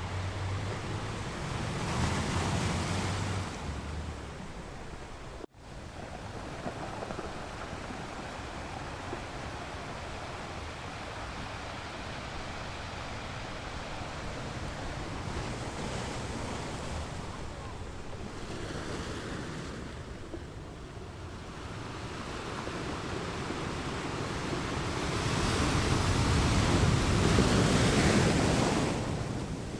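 Ocean waves washing onto a beach in slow surges that swell and ebb, the biggest surge building near the end. The sound cuts out for an instant about five seconds in.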